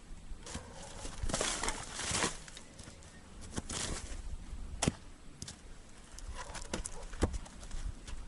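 Sawmill slab firewood being handled and stood on end, with rustling and scraping and two sharp wooden knocks, about five and seven seconds in.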